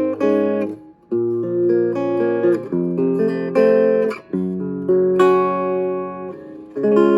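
Vintage Silvertone hollowbody electric guitar played with a clean tone and no effects: chords ringing and changing every second or so, with short breaks between them.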